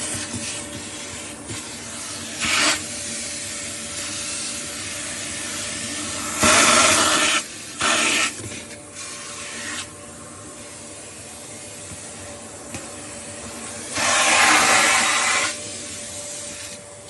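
Kärcher WD2 Plus wet and dry vacuum running steadily while sucking water from a sink, with a faint motor whine under the rush of air. Louder rushing surges come four times, two of them longer, about a third of the way in and near the end, as the nozzle takes in water and air.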